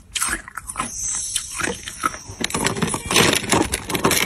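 Hard clear ice being bitten and crunched in the mouth: a run of sharp cracking crunches that grows denser and louder in the second half.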